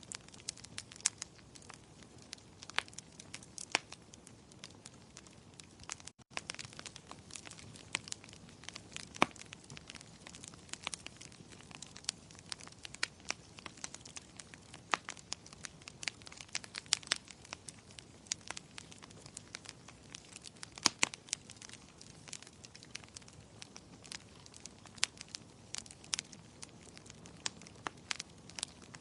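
Fireplace fire crackling: frequent irregular sharp pops and snaps over a soft steady hiss, with a brief dropout about six seconds in.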